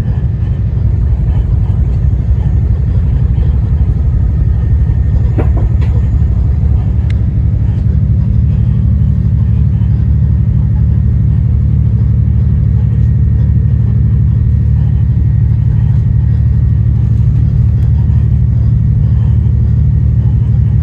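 Inside an Endeavour diesel railcar running along the line: a loud, steady low rumble from the engine and running gear, with a couple of brief clicks about five to seven seconds in.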